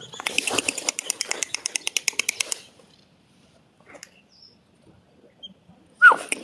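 A bird calling: a rapid, dry rattling chatter of about nine notes a second that stops after about two and a half seconds. Near the end a short falling whistle starts a new chatter.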